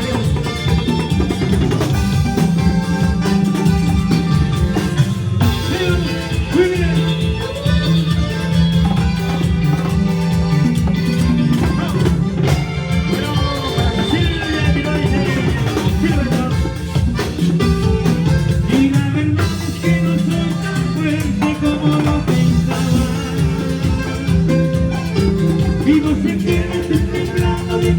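A band playing Latin dance music with drums and bass, with some singing.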